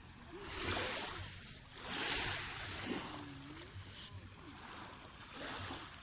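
Small waves washing onto a sandy shore of a calm sea, coming in as soft hissing swells about half a second in, around two seconds in, and again near the end.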